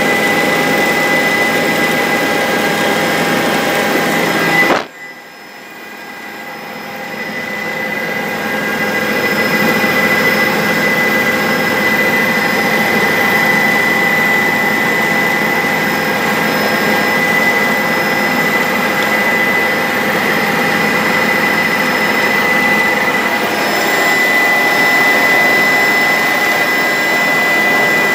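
Bell 407 helicopter's turbine engine and rotors running, a steady roar with a high whine. About five seconds in the sound drops off suddenly, then builds back up over several seconds.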